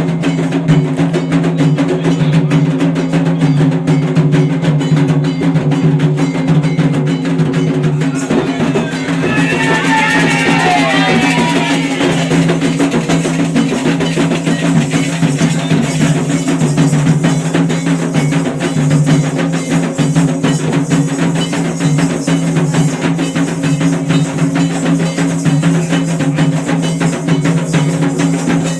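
Drum-led percussion music with a steady beat over a sustained low tone. About nine seconds in, a brief wavering high-pitched sound rises over the drums for a few seconds.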